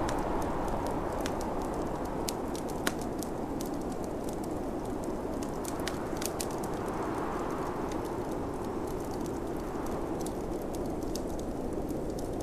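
Wood fire crackling, with scattered sharp pops, over the steady rush of snowstorm wind that swells and eases in slow gusts.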